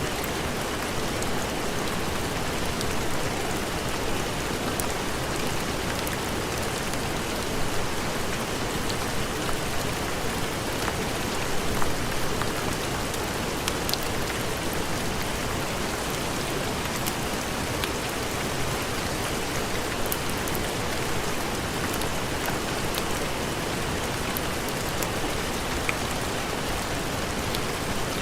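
Steady heavy rain falling on a surface, a dense even hiss with scattered sharp clicks of individual drops or pops.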